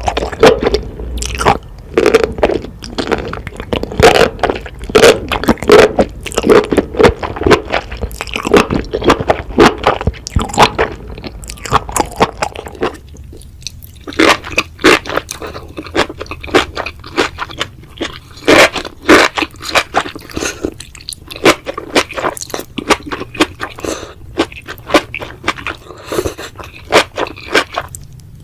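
Close-miked chewing of spicy enoki mushrooms: a dense run of crisp, wet bites and chews, with a brief pause about halfway through.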